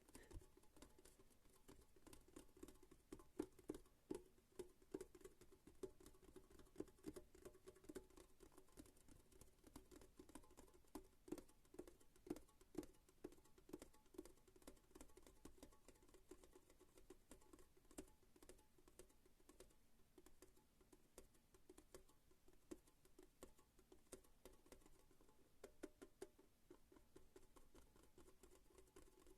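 ASMR tapping: light taps in quick, uneven runs on a hard object, each with a dull, low knock. The tapping is busiest in the first half and picks up again near the end.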